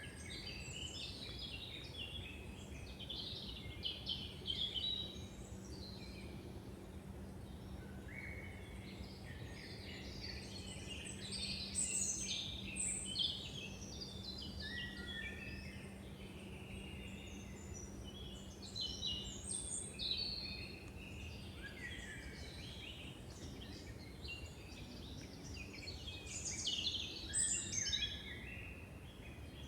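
Several woodland birds singing and calling in overlapping chirps and trills, louder in a few clusters, over a low background rumble. A faint steady hum fades out about two-thirds of the way through.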